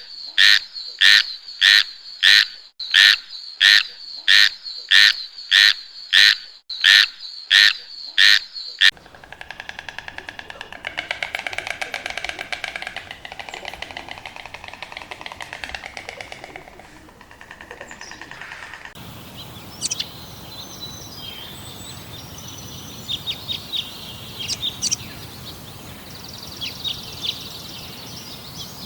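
A sequence of animal calls. For the first nine seconds a loud call repeats about twice a second. Then comes a fast, continuous trilling, and in the last ten seconds scattered short bird chirps.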